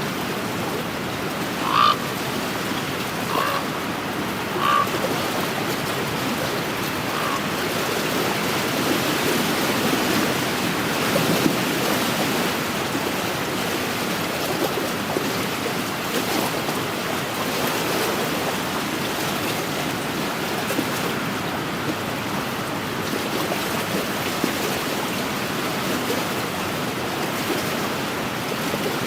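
Wind and waves washing steadily on a lakeshore. Three short animal calls come about two, three and a half, and five seconds in, with a fainter fourth near seven seconds.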